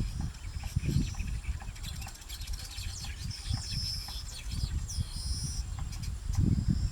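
Small birds chirping in short high calls and quick sweeps over a steady high insect drone, with an uneven low rumble underneath that is the loudest part.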